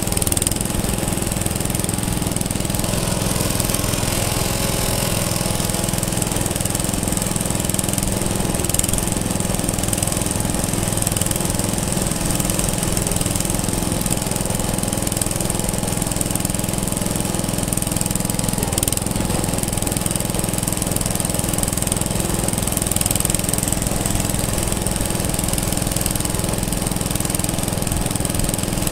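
Antique engine running steadily with a rapid, even chugging beat.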